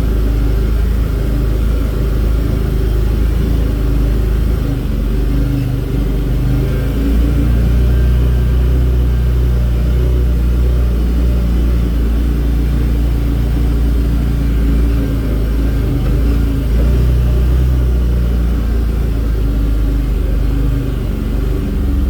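Vehicle engine running steadily while driving, a continuous low drone whose pitch shifts slightly a few times.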